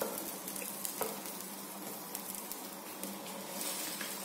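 Potato-stuffed flatbread (aloo kulcha) frying in ghee on a pan over a low flame: a steady gentle sizzle with faint crackling, with a light tap at the start and another about a second in.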